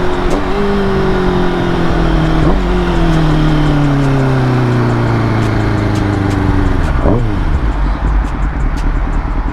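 Kawasaki ZX-6R's inline-four engine winding down steadily as the bike slows under engine braking. About seven seconds in, a quick throttle blip rev-matches a downshift for a stop, and the engine then settles to a lower, choppier note under steady wind noise.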